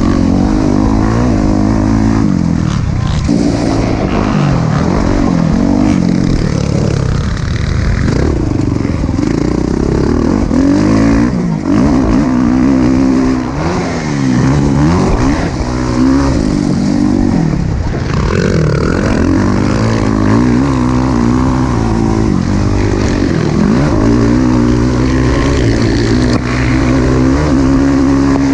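Motocross dirt bike engines revving hard, the pitch climbing and dropping again and again every second or two as they accelerate and back off.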